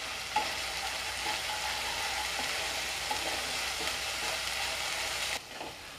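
Tomato paste frying in oil in a nonstick pan, a steady sizzle, with a spatula stirring and scraping through it as garam masala is mixed in. The sizzle drops away abruptly near the end.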